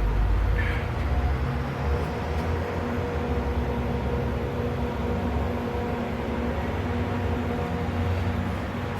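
Haas TL-2 CNC lathe running under power: a steady machine hum with a few even tones over a low rumble.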